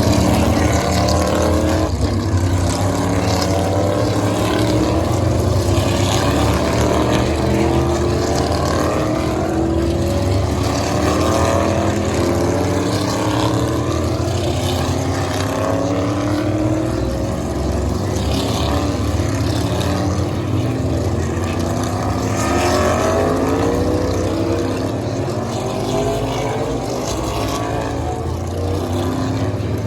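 A 2019 Mustang GT's 5.0 V8 running on an E85 tune, heard with road noise inside the moving car. A steady low drone runs throughout, with the engine note rising gently again and again.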